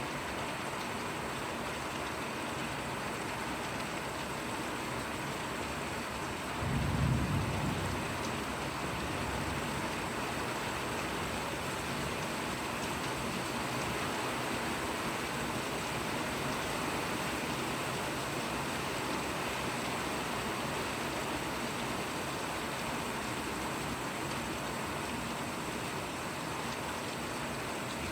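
Steady rain falling, an even hiss throughout. About seven seconds in, a short, deep rumble of thunder rises and fades over a couple of seconds.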